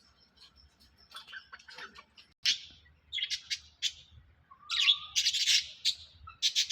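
A bird chirping in short, sharp, high calls, faint at first and then louder and in quick clusters from about two and a half seconds in.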